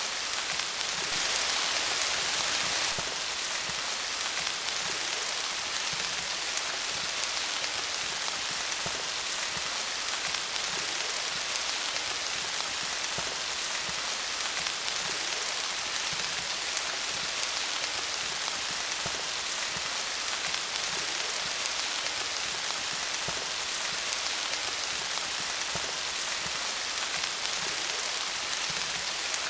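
Steady rain falling on leaves, a dense patter of drops, swelling slightly louder for a couple of seconds near the start.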